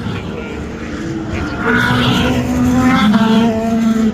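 Race car engines running at high revs as cars go by, a steady pitched engine note that swells about halfway through and drops in pitch a little after three seconds in.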